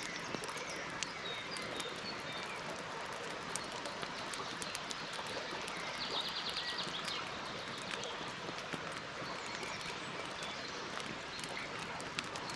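Campfire crackling steadily with frequent sharp pops, while birds chirp in the background. About six seconds in there is a short rapid trill.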